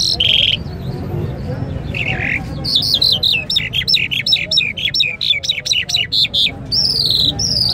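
Caged bird calling: two short buzzy calls, then a fast run of sharp, high chirping notes, ending in a few quick downward-slurred notes.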